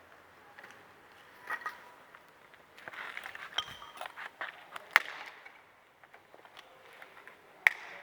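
Scattered sharp cracks and knocks of dry sticks, with a busier rustling, clattering stretch in the middle, as firewood is handled and laid on a campfire; the loudest snaps come about five seconds in and again near the end.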